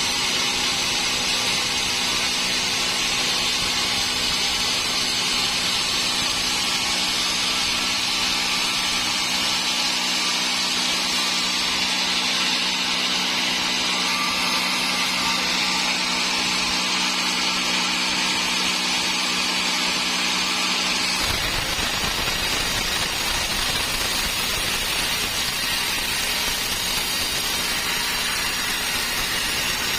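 Sawmill saw running steadily through a large dry teak log. About two-thirds of the way through, the steady low hum gives way to a rougher low rumble.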